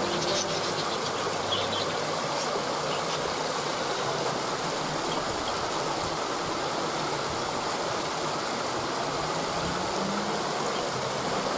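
Waterfall: a steady rush of falling water, with a few brief high bird chirps in the first few seconds.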